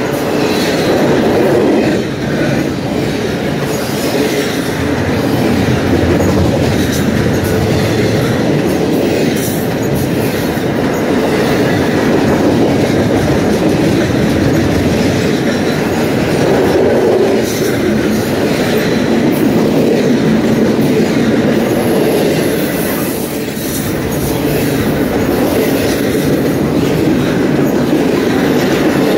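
Double-stack intermodal container train passing close by: steel wheels of the loaded well cars rumbling steadily on the rails, with some clickety-clack over the rail joints.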